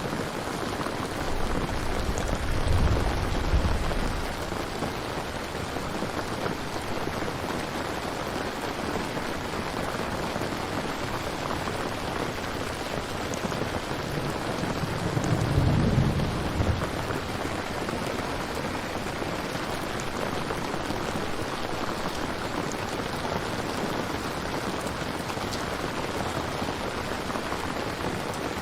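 Steady heavy rain falling, with distant thunder rumbling low twice, about three seconds in and again more loudly about fifteen seconds in.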